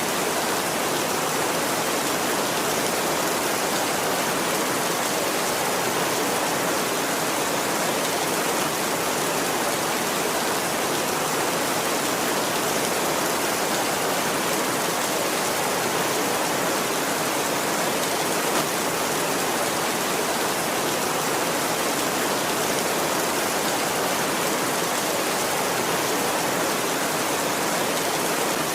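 Steady heavy rain, an even hiss that does not change, with no thunder.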